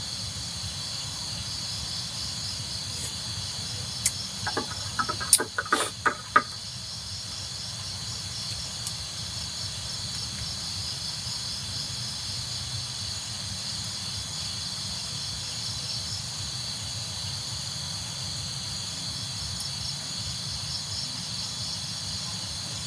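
Crickets chirping at night, a steady pulsing chorus, with a few short clicks and knocks about four to six seconds in.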